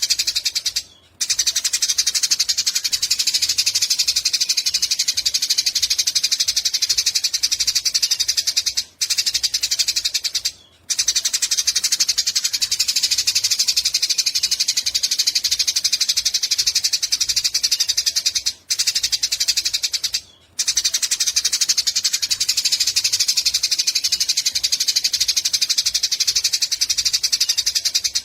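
Eurasian tree sparrow giving its long, rapid chattering call ('nyecret panjang'), a very fast, high-pitched run of notes. It goes on in long stretches broken by short pauses about every eight to ten seconds.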